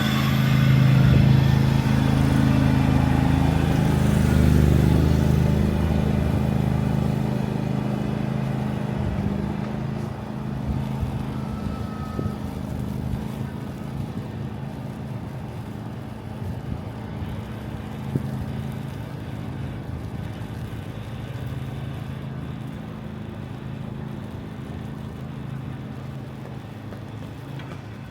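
Street traffic: a motor vehicle's engine runs loud and close for the first few seconds, then fades, leaving a steady low engine hum.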